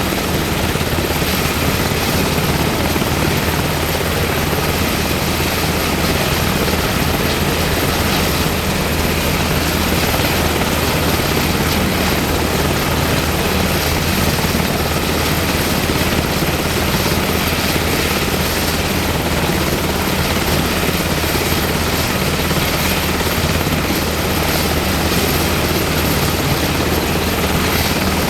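UH-60M Black Hawk helicopter's twin turboshaft engines and rotors running steadily, a loud even rush with a low throb and a thin high whine that hold unchanged.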